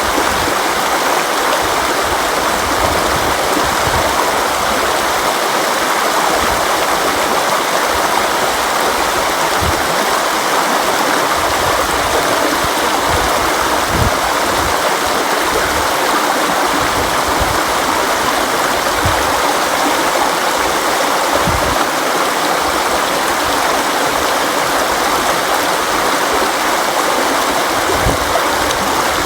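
River water flowing over rocks in a steady, unbroken rush, with faint low gurgles and thumps now and then.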